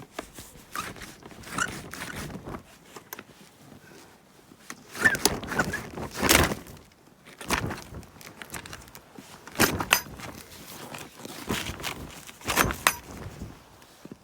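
A snow-blocked greenhouse door being worked open and someone stepping through: a string of irregular scrapes, thunks and footsteps, the loudest in two clusters in the middle and near the end.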